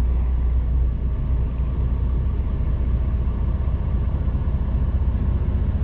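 HGV truck's diesel engine running with a steady low rumble.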